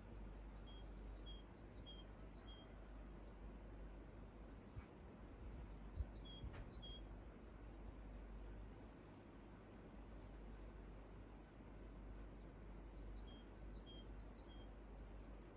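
Faint morning outdoor ambience: a steady high-pitched trill, typical of crickets, runs throughout. Over it a small bird calls in three bouts of quick paired chirps, near the start, about six seconds in and near the end, with a couple of faint knocks in between.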